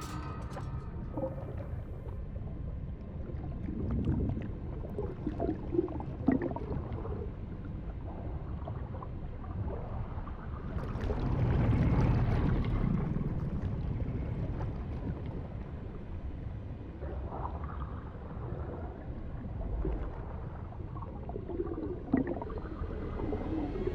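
Flood water sloshing and gurgling over a low rumble, with scattered small splashes, swelling louder about halfway through.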